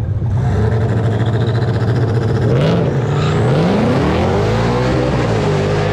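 Drag cars, a turbocharged 5.3 LS Malibu racing a Mustang, launching off the line and accelerating hard down the strip. A steady engine drone gives way about halfway through to engine notes rising steeply, climbing again and again as the cars run through the gears.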